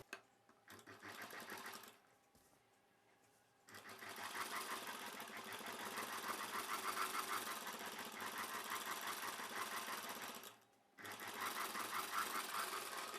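Sewing machine running a line of stitches through a blouse front piece, lining and thread piping. It sews in runs: a short burst about a second in, a long steady run from about four seconds in, a brief stop, then a final run near the end.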